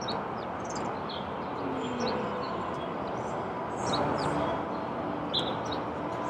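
Small birds chirping in short, scattered calls over a steady background rumble.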